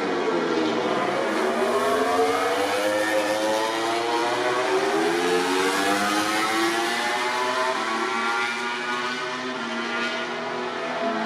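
MotoGP racing motorcycles running at high revs, the engine notes climbing as they accelerate through the gears, with more than one bike heard at once and a falling note just after the start.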